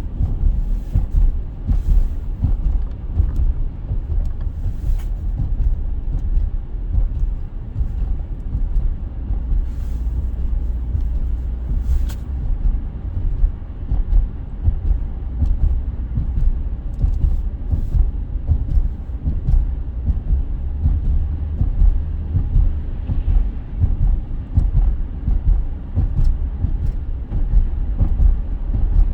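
A loud, low, unsteady rumble, with a few faint sharp clicks.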